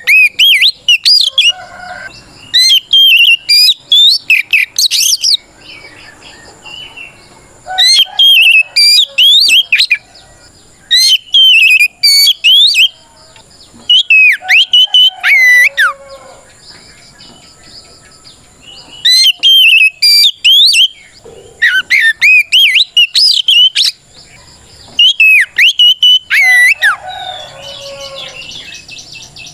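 Oriental magpie-robin (kacer) singing a loud challenge song, rapid sharply gliding whistled notes in bursts of two to three seconds with short pauses between. This is the 'ngeplong' fighting song that calls out rival males.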